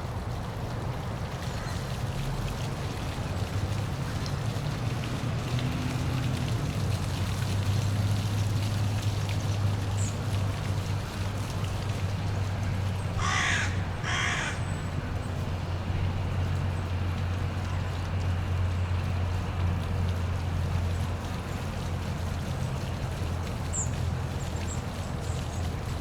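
Steady rushing of a waterfall over a low rumble. About halfway through, a crow caws twice, about a second apart, and a small bird chirps faintly a couple of times.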